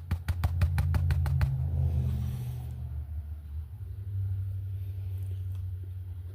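A motor vehicle passing on a nearby road: a low rumble that is loudest in the first couple of seconds and then fades to a steady low hum. A rapid run of clicks sounds during the first second and a half.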